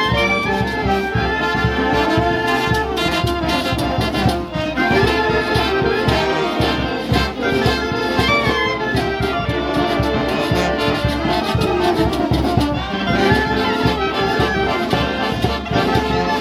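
Peruvian brass band playing a festival tune: brass melody over a steady beat.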